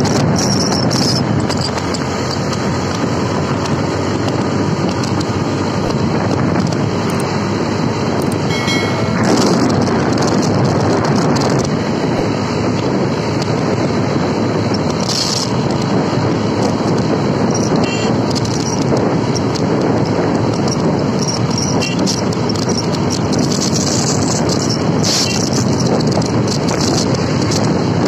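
Wind buffeting the microphone on a moving motorcycle, mixed with engine and road noise at a steady riding speed.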